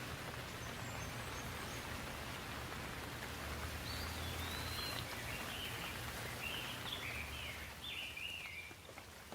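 Steady rain hiss with a low rumble underneath, and a songbird singing a run of short, stepping phrases from about four seconds in. The rain hiss eases near the end.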